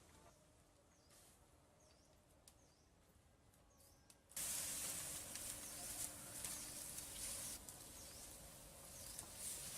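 Faint outdoor ambience with small birds chirping repeatedly. About four seconds in, a steady rushing noise abruptly sets in and stays, with the chirps still heard over it.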